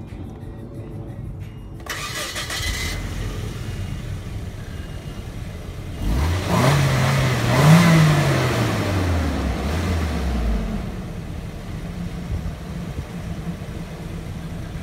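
Nissan 240SX's KA24DE 2.4-litre four-cylinder engine through its stock muffler: it starts about two seconds in and idles, then is revved once, its pitch climbing and falling back to idle.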